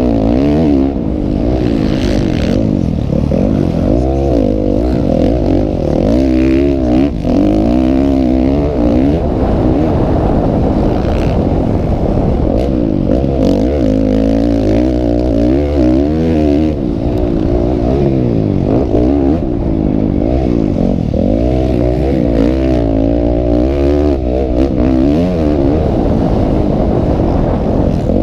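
Several motocross bike engines running at the same time, revving so that their pitch rises and falls over and over, continuously and loud.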